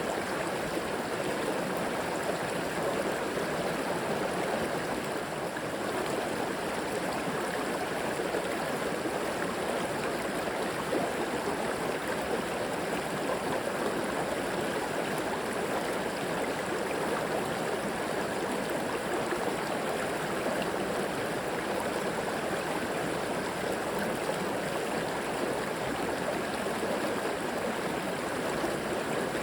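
A river or creek flowing over rocks: a steady, even rush of water with light gurgling.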